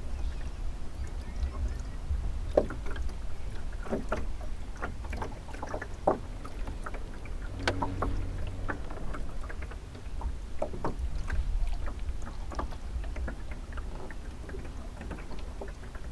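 Water lapping and chuckling against the hull of a small sailing dinghy under way: irregular little splashes and knocks over a steady low wind rumble, with a short low tone about eight seconds in.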